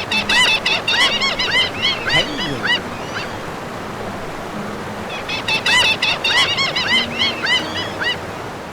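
A bird calling in two rapid series of short, arched, honking notes, with a pause of about two seconds between the series.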